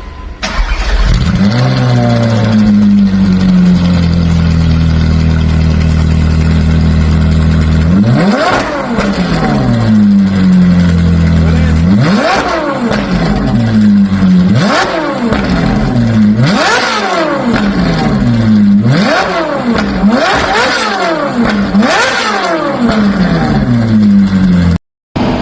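Ferrari F8 Tributo's twin-turbo V8 starting, settling into a steady idle, then blipped about eight times in quick rises and falls through its exhaust.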